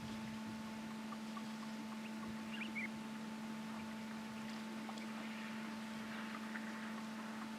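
Outdoor wildlife ambience dominated by a steady low hum with a fainter higher tone above it, and a couple of short bird chirps about two and a half seconds in.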